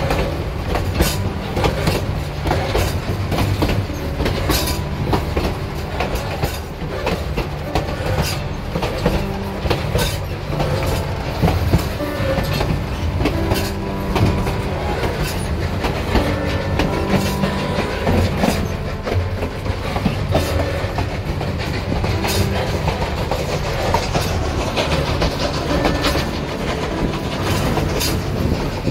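Narrow-gauge steam train's passenger car rolling along with a steady rumble, its wheels clicking and clacking over the rail joints, heard from the car's open side.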